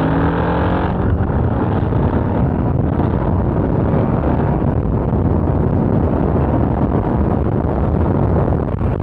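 Motorcycle accelerating, its engine note rising for about the first second, then a steady rush of engine and wind noise at road speed.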